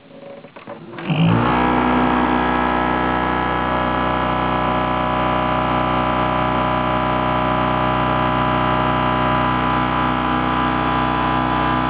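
Broken PC CPU fan with one blade missing spins up suddenly about a second in, after a few faint clicks, then runs with a loud, steady droning noise. The missing blade leaves the fan unbalanced and unstable as it spins.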